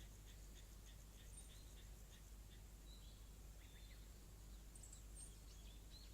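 Faint birds chirping over quiet countryside background: a quick run of short chirps at first, then scattered higher calls and whistles.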